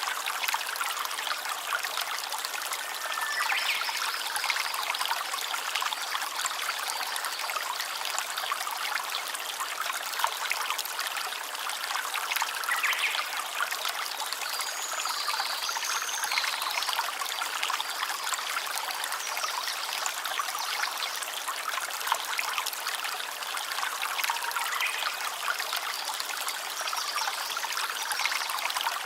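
A small stream trickling and splashing steadily over stones, with a few faint high calls now and then.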